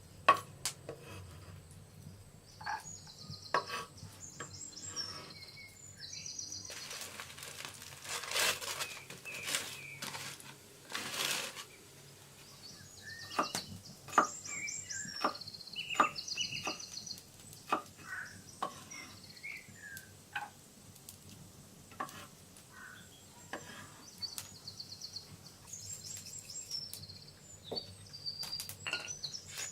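Birds chirping in short repeated trills over scattered sharp knocks and taps, with two longer scraping or rustling stretches about seven and eleven seconds in.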